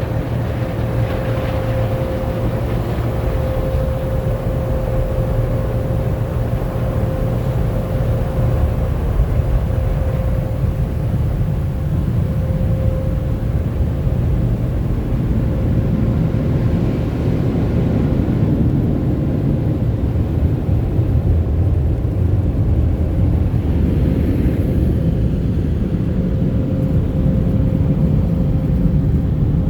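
Automatic car wash machinery working over a vehicle, heard from inside the cabin: a loud, steady low rumble of brushes and water, with a steady whine that fades out about halfway through.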